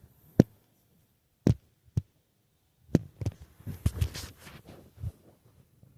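A series of sharp knocks and thumps: single ones about half a second, a second and a half, two and three seconds in, then a quicker, denser run of them with some hiss over the following two seconds.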